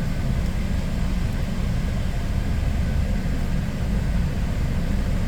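Steady low rumble of a car idling, with no distinct knocks or changes.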